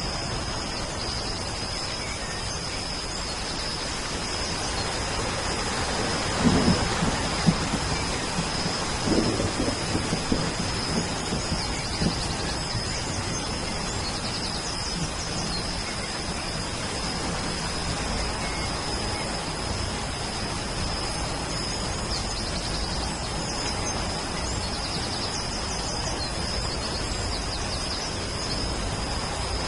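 Steady rain falling, with a rumble of thunder that builds about six seconds in and dies away by about twelve seconds.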